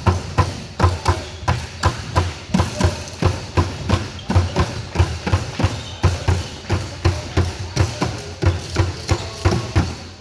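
A steady drum beat, about three thumping beats a second, with a deep bass on each beat.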